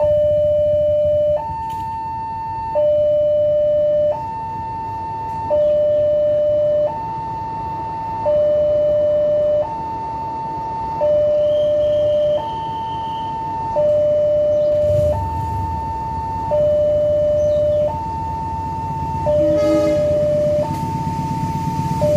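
Railroad crossing warning alarm sounding: an electronic two-tone signal alternating evenly between a high and a low tone, each held about a second and a half, warning that a train is coming. A low rumble underneath grows louder near the end.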